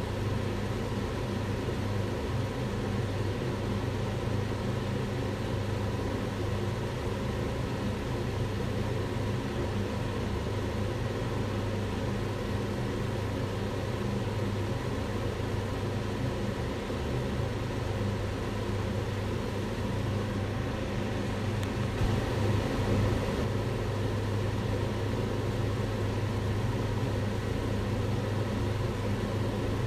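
Kitchen extractor hood's fan running steadily: a continuous whooshing rush of air over a low motor hum.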